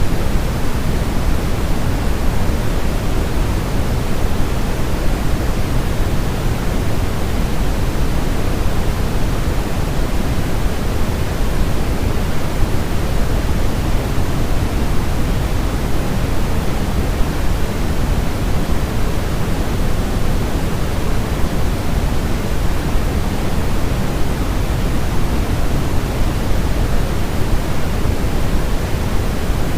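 Steady, unchanging noise from a baby-sleep white noise track, heavier in the low end than in the highs, like pink noise.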